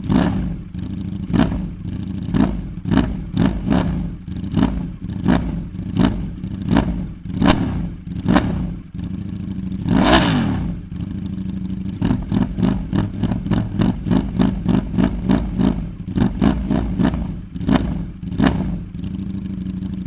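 Ducati Streetfighter V4's V4 engine through a QD aftermarket exhaust, warm and idling between repeated quick throttle blips. About halfway there is one longer rev, and in the second half the blips come in a fast run.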